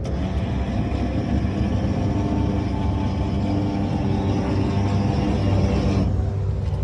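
Light aircraft piston engine running steadily, a strong low rumble with a steady hum above it.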